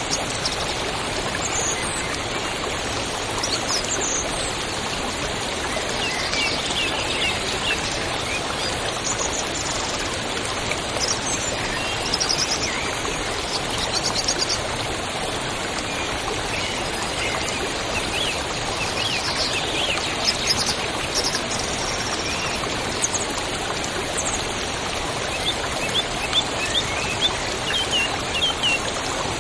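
A river rushing steadily, with small birds chirping and trilling over it throughout.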